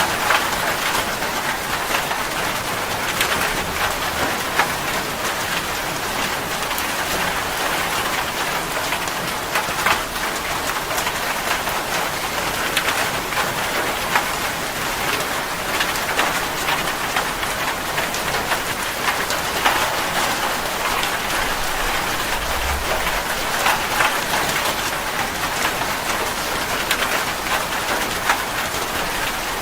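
Steady rain falling on a surface, an even hiss dotted with individual drop impacts.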